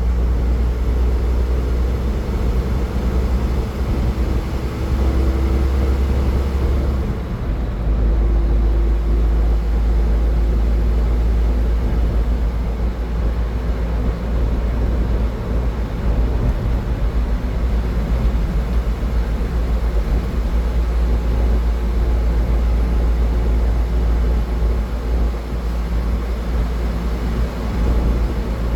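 A car driving at highway speed: steady low tyre and road rumble with a faint engine drone. The rumble shifts a little about seven seconds in.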